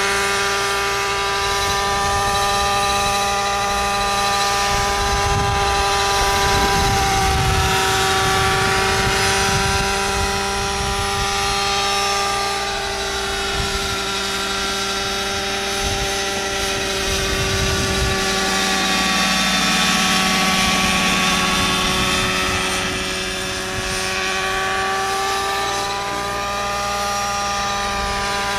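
Vario Benzin radio-controlled model helicopter running on its 23cc gasoline engine, a steady high engine note with the rotor's whirr, drifting slightly in pitch.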